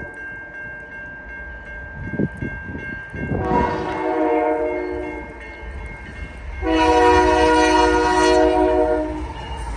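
CN freight locomotive 2881's Nathan K5HL multi-chime air horn sounding two long blasts, the second starting about seven seconds in, over the low rumble of the approaching train. The horn's tone is 'really frozen', the chimes dulled by cold.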